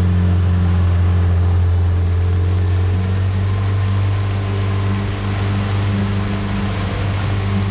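Boat engine running steadily under way, a low, even hum with a steady hiss over it.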